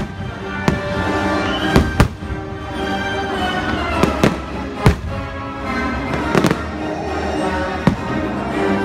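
Aerial firework shells bursting with about nine sharp bangs at uneven intervals, some in quick pairs, over loud music playing continuously.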